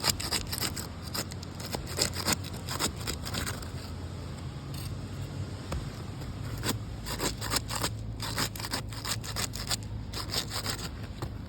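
Irregular crackling and scraping clicks of asphalt roof shingles being handled, over a steady low hum.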